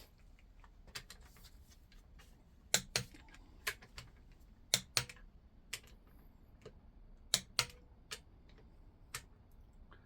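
Click-type torque wrench rechecking the connecting-rod big-end bolts of a Reliant 850 engine: a series of sharp metallic clicks, several in close pairs, as each bolt reaches its set torque.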